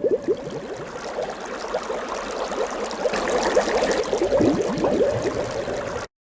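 Water drops falling into water: a rapid, continuous patter of small plops and bubbling, cutting off suddenly about six seconds in.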